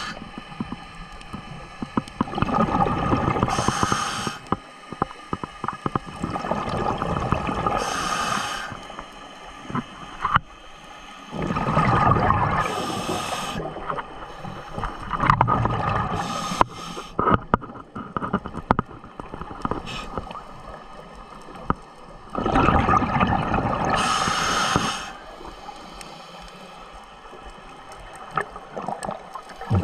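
Scuba regulator breathing underwater: swells of bubbling, gurgling exhalation every few seconds, with quieter gaps between breaths.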